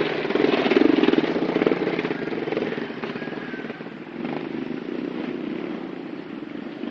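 Motorcycle engine running with a fast, even exhaust pulse, loudest for the first two seconds and then settling to a lower, steady level.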